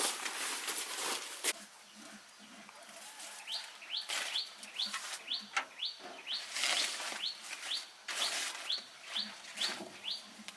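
A bird calling in a quick series of short rising chirps, about two or three a second, after a brief stretch of scuffing noise at the start.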